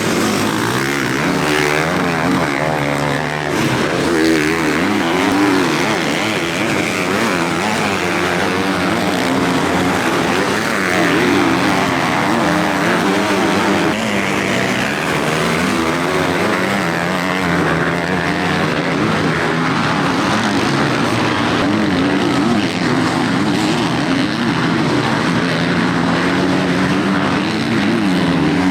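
Several motocross bikes' engines revving and falling back as they race around the track, their pitches overlapping and rising and dipping with the throttle.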